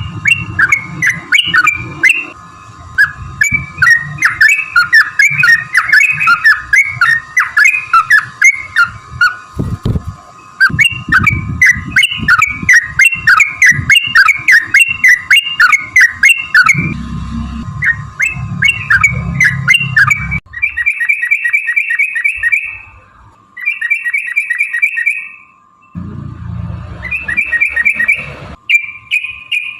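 Yellow-vented bulbul (trucukan) singing: dense, bubbling chattering phrases, then from about two-thirds in fast rolling trills ('ropel') repeated in bursts about a second long with short gaps. A steady thin hum sits under the song, with patches of low rumble.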